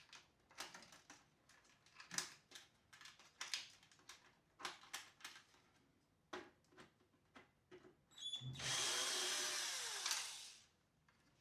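Small clicks and taps of parts being handled. About eight seconds in, a small handheld power tool runs for about two seconds, spinning up and then winding down.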